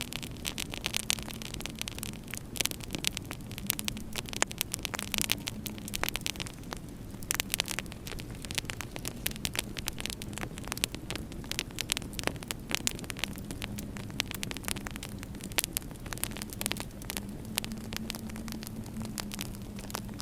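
Wood fire crackling in a fireplace, with frequent sharp pops and snaps scattered irregularly over a low, steady hum.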